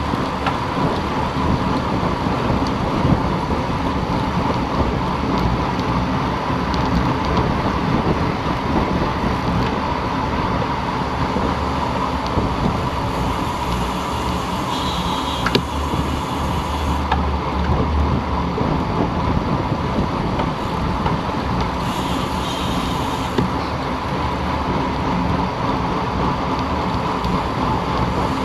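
Wind rushing over the microphone of a camera on a moving road bicycle, with steady road and tyre noise underneath.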